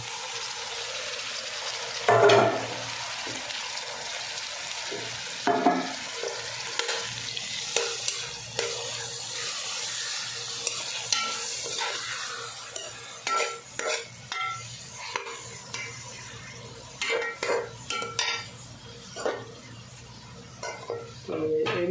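Chopped tomatoes and onions sizzling in hot oil in a metal pot, stirred with a metal spoon that scrapes and clinks against the pot. There is a sharp clatter about two seconds in and a run of clinks and scrapes in the second half.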